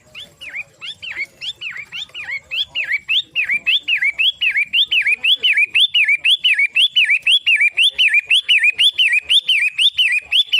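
Long-tailed shrike singing a fast, repeated string of sweeping whistled notes, about three a second, growing louder over the first few seconds.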